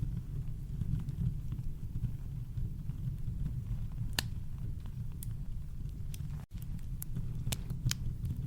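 Campfire crackling: scattered sharp pops and snaps, a few louder ones in the second half, over a steady low rumble of brown noise. The sound drops out for an instant about six and a half seconds in.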